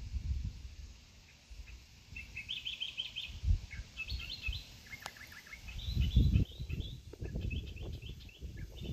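Small birds chirping in quick runs of short, high repeated notes, starting a couple of seconds in, against a low rumbling noise that comes and goes and is loudest about six seconds in.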